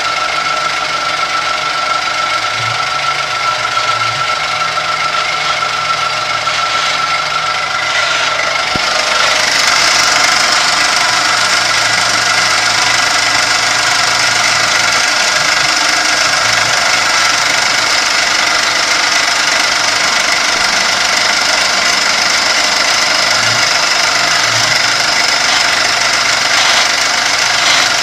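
Kami FKM 350 PL machine running with its Y axis moving, a steady mechanical whine with several held tones; about nine seconds in it turns to a louder, harsher noise that holds. This is the strange sound from the Y axis that the owner is showing.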